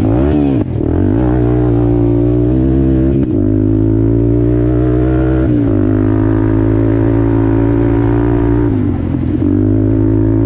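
Off-road vehicle engine running under throttle at a steady pitch, with brief drops in revs a few times and a longer dip near the end.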